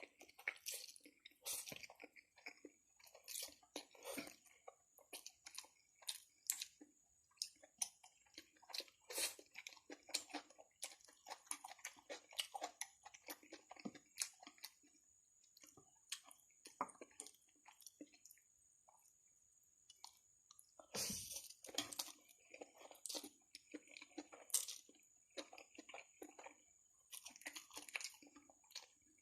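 A person eating spicy instant noodles close to the microphone: irregular chewing and wet mouth clicks, with a quieter lull about two thirds of the way through. A faint steady high-pitched tone sits under it.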